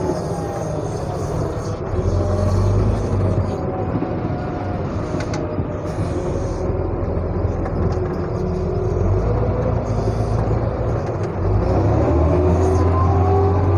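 Heavy vehicle engine running with a deep, steady rumble. Its pitch drops near the start and rises again, louder, near the end as it revs up.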